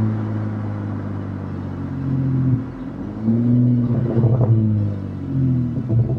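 Exhaust of a 2020 Acura TLX's 3.5-litre V6, heard at the rear bumper, breathing through a custom catback with the stock mufflers and resonators replaced by two Vibrant Ultra Quiet resonators. It drones steadily under way, eases off about two and a half seconds in, then takes throttle again with a brief rise and fall in pitch around four seconds in.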